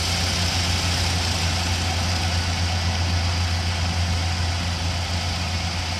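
Kubota KAR90 six-row rice combine harvester running steadily: a constant low engine hum under an even whir of machinery.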